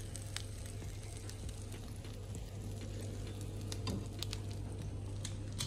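Egg-dipped bread frying in a pan, sizzling steadily with scattered small crackles and pops, over a steady low hum.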